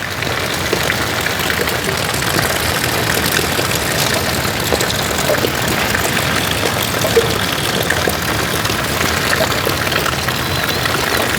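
Steady rain falling, a dense even hiss with scattered drop ticks, swelling louder at the start.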